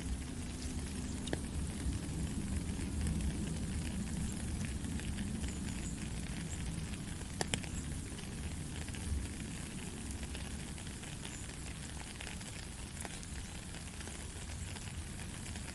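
Steady rain falling, a dense patter of drops with a low rumble underneath and a few sharper drip clicks.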